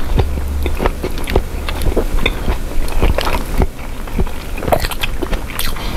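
A person chewing a mouthful of grilled cheese sandwich close to the microphone: irregular small clicks and smacks of the mouth.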